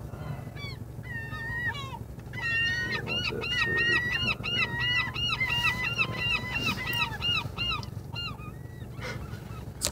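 A flock of seagulls calling, many short overlapping cries repeated several times a second, over a low steady hum.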